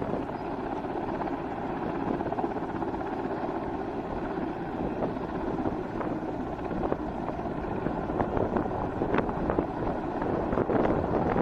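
Mi-17 V5 helicopter's rotor and turbines running steadily overhead, with a few short crackles in the second half.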